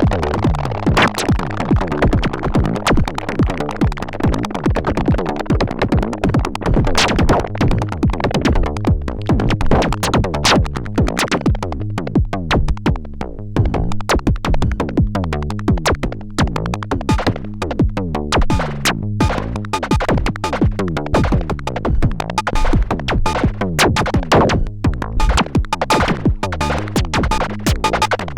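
Erica Synths Perkons HD-01 drum synthesizer playing a fast, dense electronic drum pattern of sharp hits over low pitched drum tones.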